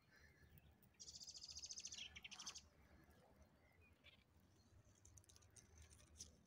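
A small bird calls: a fast, high trill lasting about a second, then a quick falling note.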